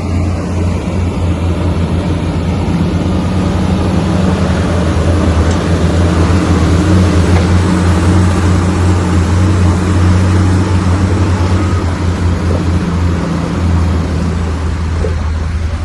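Bulldozer's heavy diesel engine running steadily, a deep drone with a rushing noise over it, a little louder in the middle.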